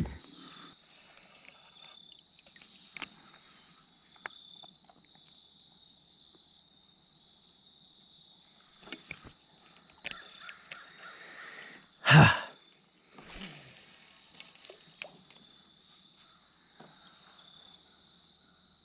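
Quiet outdoor background with a faint steady high-pitched hum and a few soft knocks, broken by one short loud thump about twelve seconds in, followed by a brief rushing noise.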